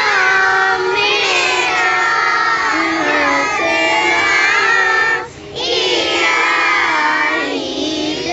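A group of girls singing together, the voices sustained and melodic, with a brief pause for breath about five seconds in.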